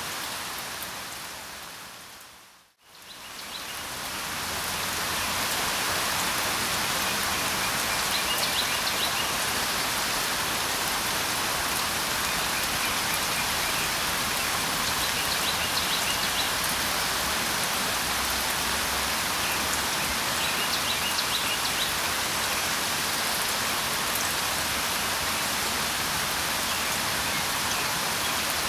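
Steady rain falling, fading almost to silence about three seconds in and swelling back up over the next couple of seconds, like a looped recording joined with a crossfade. Faint bird chirps come through the rain three times.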